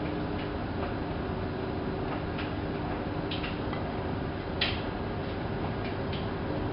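Hanseatic HWM814A3D front-loading washing machine running mid-cycle: a steady rushing noise and motor hum from the turning drum, with irregular light clicks and one sharper knock about two-thirds of the way through.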